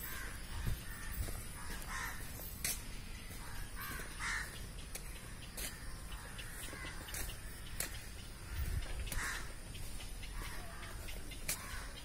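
Birds calling: a handful of short harsh calls spaced a couple of seconds apart, over steady outdoor background noise.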